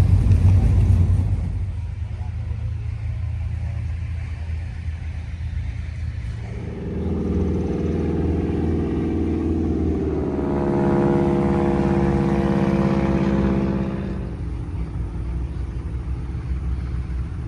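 Vehicle engines running. A heavy low rumble eases off about a second and a half in. Later a second engine note with a steady pitch builds, holds loudest for a few seconds near the middle, and then falls away.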